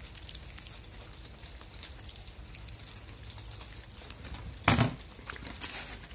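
A person wearing dentures chewing a mouthful of cold fried chicken, with faint crackles and wet clicks. One loud, sharp noise about two-thirds of the way through.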